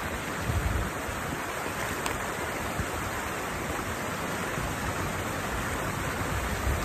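Steady rush of water pouring over a small weir in a water channel, with a brief low bump about half a second in.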